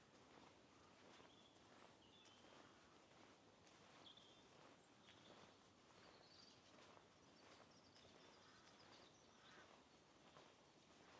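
Faint birdsong: short chirps and trills come several times over a low, steady hiss of background noise.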